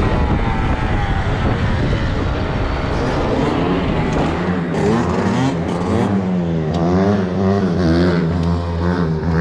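Dirt bike engine running, revving up and down in the first second, then settling into a steadier, wavering run.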